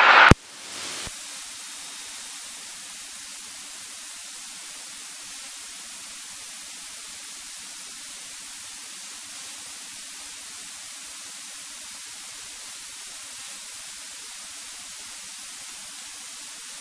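Steady hiss of the cockpit intercom and radio audio feed, with a faint steady hum underneath, just after a tower radio transmission cuts off.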